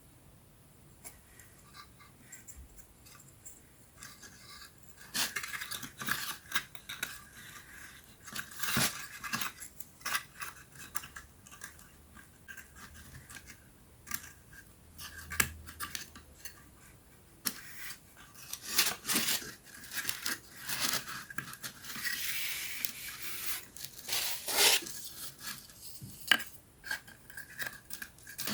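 Wooden 3D-puzzle pieces being handled and fitted together: scattered light clicks and taps, with stretches of wood rubbing and scraping on wood, busier in the second half.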